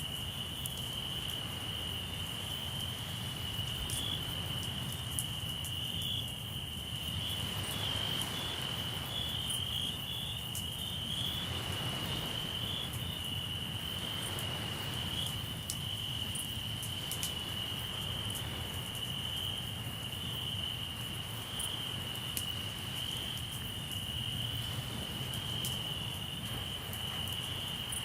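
Crickets chirping in a steady, continuous high trill. Beneath it runs a low rumble of surf that swells now and then, with scattered small crackles and pops from a campfire.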